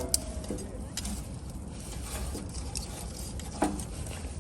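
A few light knocks and a short ringing clink, one about three and a half seconds in, as small objects are handled, over a steady low rumble.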